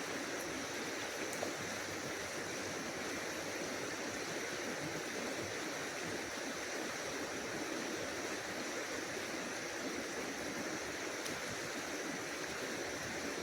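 Steady rush of water from a swollen creek running at a waterfall, with a faint, steady high-pitched tone running through it.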